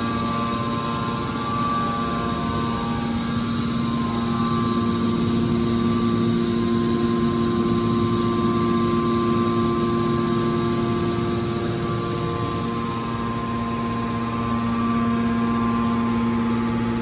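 Scrap metal baler running with a steady machine hum made of several constant tones.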